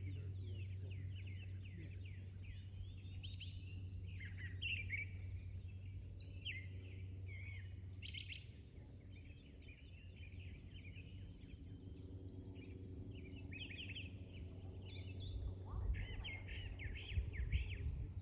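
Small birds chirping and calling in quick, short notes, with a high thin held note twice, over a steady low hum. Near the end, low rumbling grows louder.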